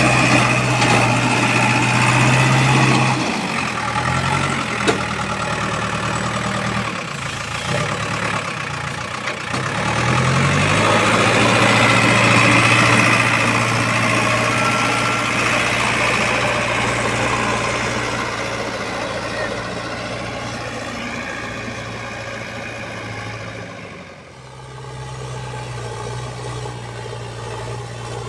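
Heavy diesel engine running, its low note dipping and wavering for several seconds early on before settling back to a steady run. There is a sharp click about five seconds in, and the sound briefly drops away near the end.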